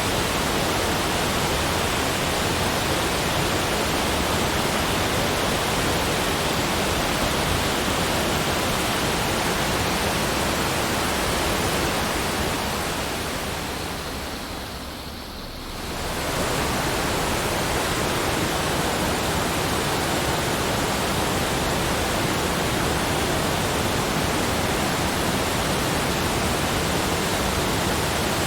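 Steady, even rushing noise spread across all pitches, with no distinct events. It fades down a little before halfway and swells back up a second or so later.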